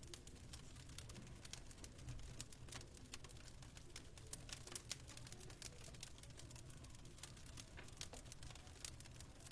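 Wood fire crackling faintly, a dense run of small irregular pops and snaps over a low steady rumble.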